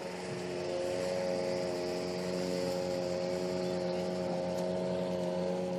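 Small river boat's motor running steadily under way, a droning hum with a constant pitch.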